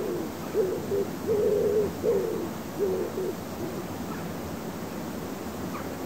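A bird's low hooting calls, about six short notes in a row, some dropping in pitch at the end, stopping about three and a half seconds in; a faint steady outdoor background hiss remains.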